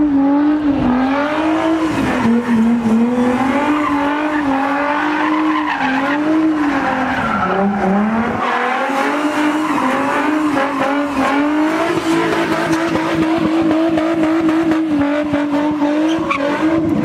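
A car engine held at high revs, its pitch wavering up and down with the throttle and dipping briefly about halfway, over tyres squealing and skidding on the pavement.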